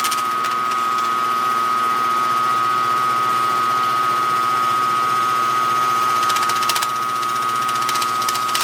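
Milling machine running steadily with a constant high whine, its cutter spinning while the table is cranked up to touch off on a strip of paper.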